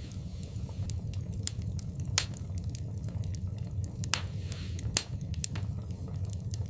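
Wood fire burning in a fireplace: a low steady rumble of the flames with irregular crackles and pops, two sharper pops about two seconds in and near five seconds, and a brief soft hiss just before the second.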